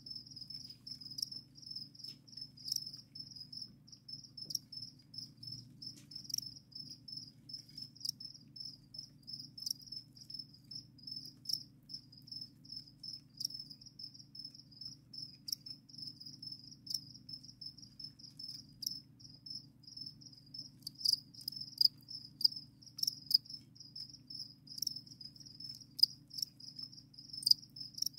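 Crickets chirping steadily in a fast, pulsing trill, with sharp clicks scattered through it that come thicker and louder in the last several seconds. A faint low hum lies underneath.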